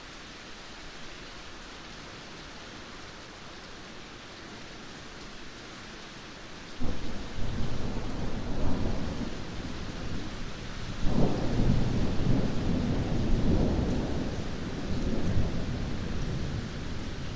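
Steady rain hiss, then a sudden thunderclap about seven seconds in and a second, louder peal about four seconds later, the thunder rumbling on over the rain.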